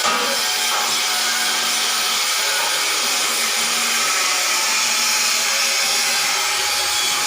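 Steady, loud machine noise, like a power tool or industrial machine running continuously, with most of the sound in the high, hissing range.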